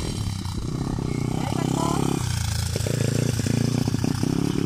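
Single-cylinder four-stroke engine of a 125 cc pitbike running, its revs rising and falling. The engine gets louder about a second and a half in.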